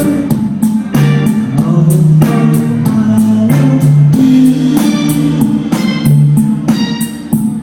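Live rock band playing an instrumental passage without vocals: strummed guitar chords over bass and a drum kit keeping a steady beat.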